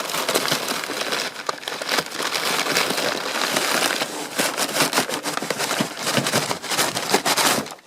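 Packaging being rustled and crinkled while a ceiling-fan part is pulled out of its box, with many small crackles and clicks; it stops abruptly near the end.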